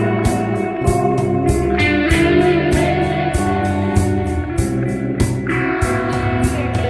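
Band music: electric guitar playing sustained notes over a steady drum beat and bass.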